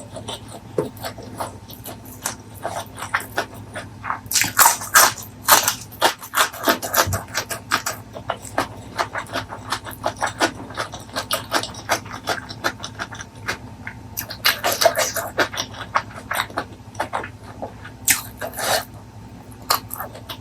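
Close-miked eating: chewing with wet, crackling mouth sounds and smacks, coming in bursts, busiest about four to six seconds in and again near the end.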